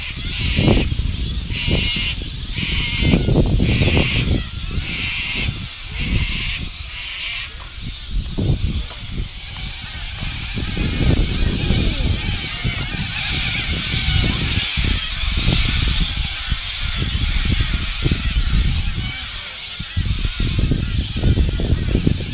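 Birds calling: a run of short high calls about one every 0.7 s for the first seven seconds or so, then a steady high-pitched chorus. Throughout, wind buffets the microphone with a low rumble.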